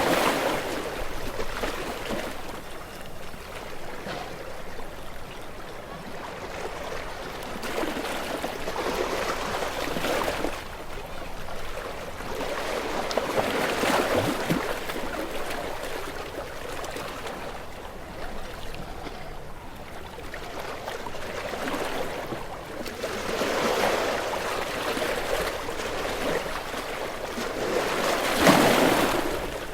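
Sea waves washing in and breaking against shoreline rocks, the wash swelling and falling back every several seconds, the biggest surge near the end.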